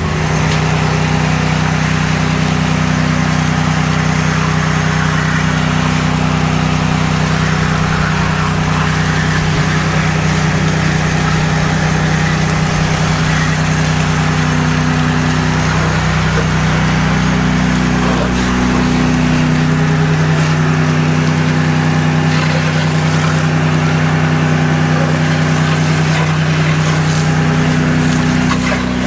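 Pressure washer's gas engine running steadily, with a steady hiss over it; the engine's pitch dips and shifts a few times in the second half.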